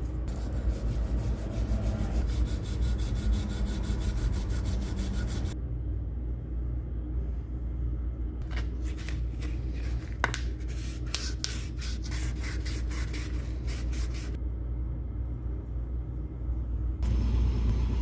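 Rapid repeated rubbing strokes on a part of an old electric planer, in two runs of several seconds each with pauses between, over a steady low hum.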